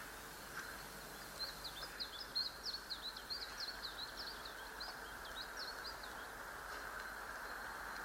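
A small bird twittering: a quick run of high, short chirps from about a second and a half in to about six seconds in, over a steady background hiss.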